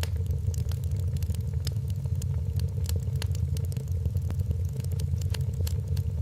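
Wood fire in a fireplace crackling: frequent sharp pops and snaps over a steady low rumble of the flames.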